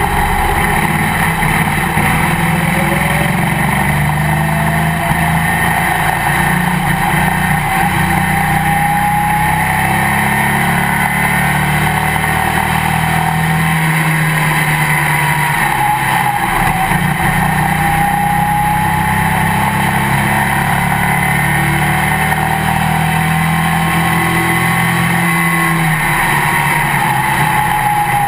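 Race car engine running steadily, heard from inside the cockpit, with a whine that slowly rises and falls in pitch.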